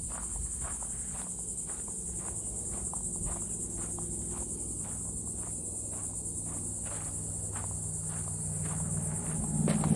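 Steady high-pitched insect chorus, with footsteps at a walking pace of about two steps a second underneath. A brief louder low thump near the end.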